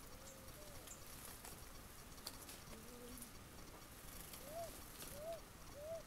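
Faint bird calling: a few soft low notes early on, then a run of four short, evenly spaced arched notes, rising then falling, in the second half. A few light clicks sound in the background.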